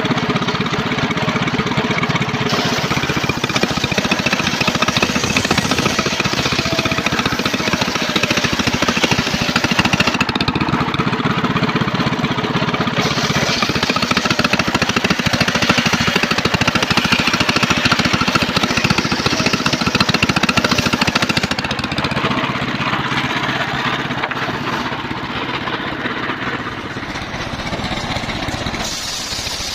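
Engine-driven homemade circular sawmill running loud and steady, its blade sawing trembesi (rain tree) timber. The sound eases a little about two-thirds of the way through.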